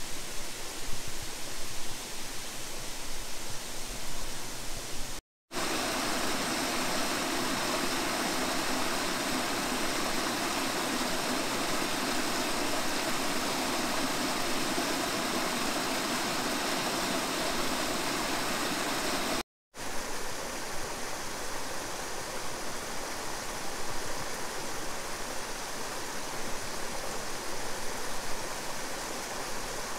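Running water of a small stream flowing over rocks: a steady rush, cut twice briefly, with the middle stretch the evenest.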